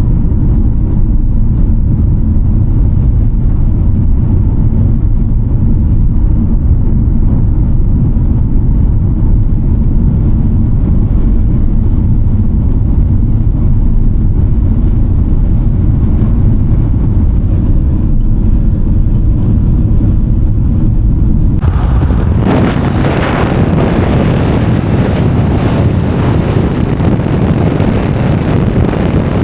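Car driving at a steady speed, heard from inside the cabin as a low road and engine drone. About two-thirds of the way through it changes suddenly to loud wind rushing over the microphone.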